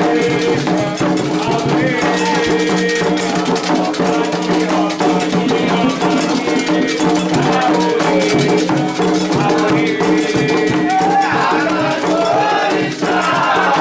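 Candomblé ceremonial music: rattles shaken in a steady rhythm under group singing.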